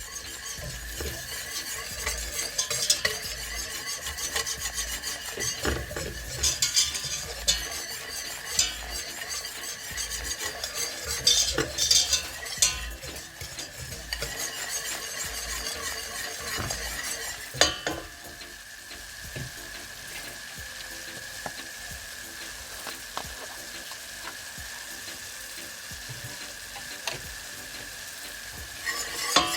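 Butter-and-flour roux cooking in a pan: a utensil stirring and scraping against the pan over a gentle sizzle. About 18 seconds in the stirring stops with a sharp knock and the sizzle carries on more quietly.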